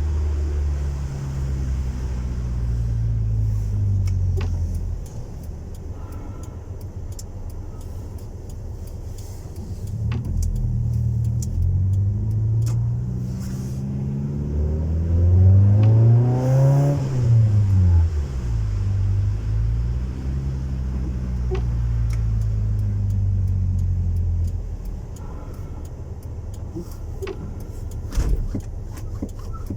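A Honda Civic 1.4i S's non-VTEC four-cylinder engine running through a custom-made exhaust, its revs rising and falling several times. The highest rev comes about halfway through, and the engine settles back to a low, steady idle near the end.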